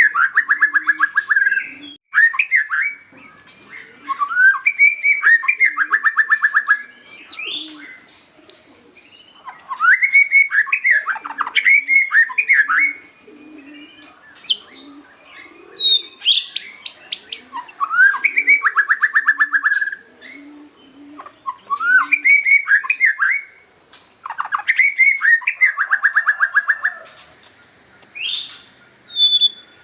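Young white-rumped shama, just out of its spotted juvenile plumage, singing its basic song: a series of short phrases of fast repeated whistled notes, separated by brief pauses. A steady high thin tone runs underneath.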